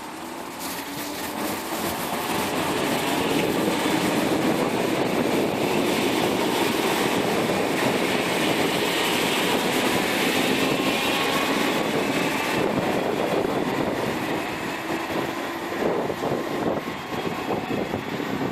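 A train running through the station. Its noise builds over the first few seconds and holds with gliding whining tones, then turns to a run of wheel clatter over the rail joints near the end.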